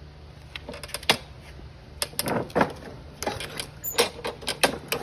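Clicks, knocks and short scraping pulls of a Lawn-Boy push mower being handled and pull-started, coming faster in the second half; its Kohler 149cc engine catches right at the end.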